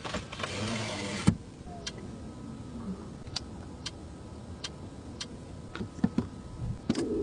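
A brief whir from a small electric motor in a Mercedes car, ending in a click, then steady clicking about every 0.6 seconds.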